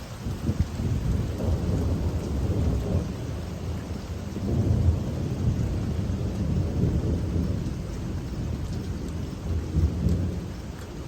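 Steady rain with a low rumble of thunder that swells and fades several times.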